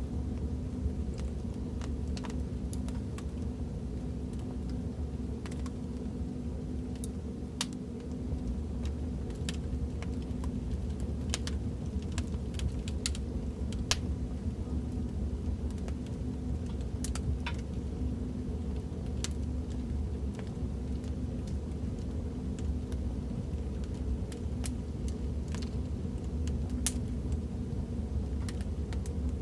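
Recorded fireplace crackling: irregular sharp pops and snaps of burning wood over a steady low rumble of the fire.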